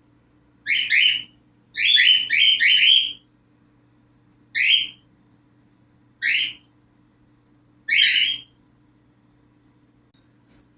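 Pet cockatiels giving short, shrill calls that rise in pitch: a pair, a quick run of four, then single calls a second or two apart that stop well before the end.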